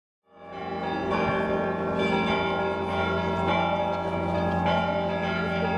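Church bells ringing, fading in about half a second in: repeated strikes over the lingering hum of several bells sounding together.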